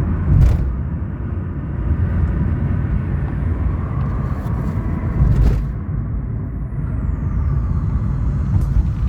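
Vehicle travelling at speed on a highway: steady low road and engine noise.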